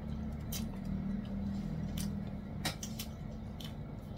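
Chewing a panko-crumbed, deep-fried chicken cutlet: a handful of short crisp crunches, the loudest a little after halfway, over a low steady background hum.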